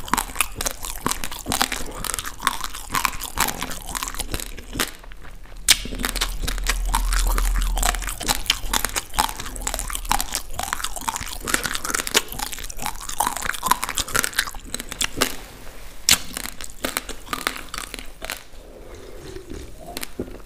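Close-miked crunching and chewing of dry, uncooked basmati rice grains: a dense, rapid crackle of grains cracking between the teeth. A low rumble swells briefly about six seconds in, and the crunching grows quieter near the end.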